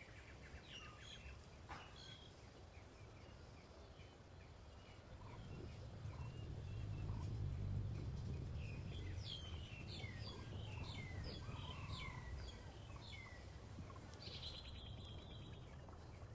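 Birds chirping in many short, high, falling notes, busiest in the middle and later part, over a low rumble that swells in the middle.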